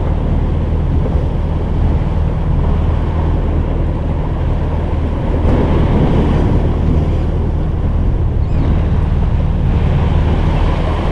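Steady low rumble with wind blowing on the microphone and the wash of water around a small fishing boat.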